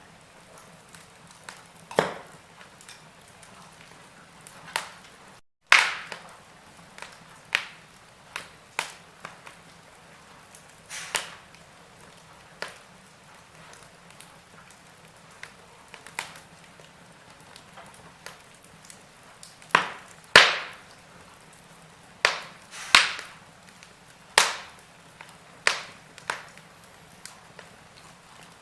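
Wood fire burning in a fireplace, crackling: irregular sharp snaps and pops over a faint steady hiss, with a few of the loudest pops about two-thirds of the way through. The sound cuts out for a split second about six seconds in.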